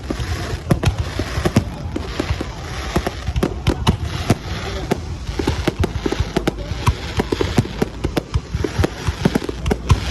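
Fireworks display: a dense, irregular run of sharp bangs and pops, several a second, over a continuous background din.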